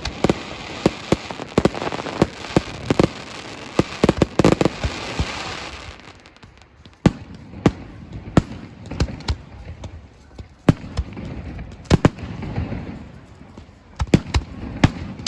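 Fireworks display going off: a dense run of bangs and crackling shells for about six seconds, then it thins out to single sharp bangs spaced about a second apart, picking up again near the end.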